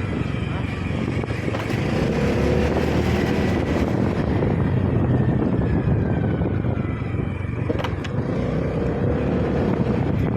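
Steady engine and road noise from a moving vehicle, with faint whines that slide in pitch and a single click about eight seconds in.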